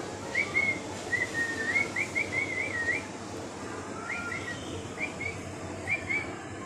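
Clear whistling in short phrases: a few brief notes, a longer wavering run from about one to three seconds in, then more short notes after a pause.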